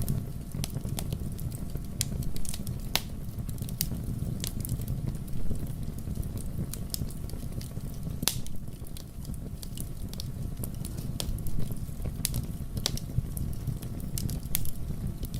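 Wood fire burning in a fireplace, with a low steady rumble of flames and irregular crackles and pops of burning wood, a few louder snaps scattered through.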